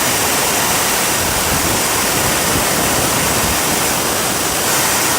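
Turbocharger jet engine running steadily: a loud, even rushing noise with no clear pitch, holding level throughout.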